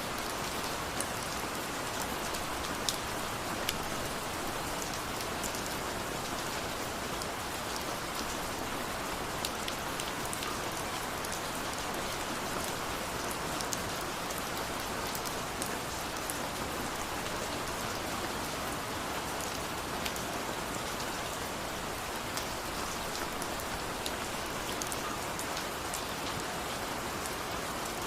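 Steady rain falling, an even hiss with scattered individual drop ticks on top.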